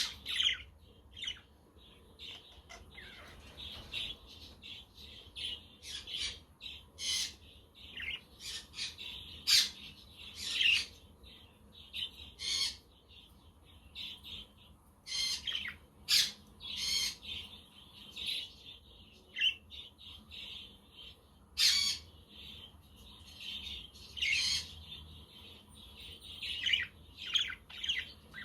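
A flock of budgerigars chattering and warbling without a break, cut through every second or two by short, sharp squawking calls.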